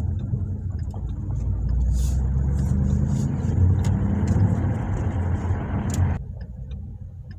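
Ford Mustang GT's 5.0-litre V8 engine running under way, a low drone heard from inside the cabin. The engine sound drops away suddenly about six seconds in.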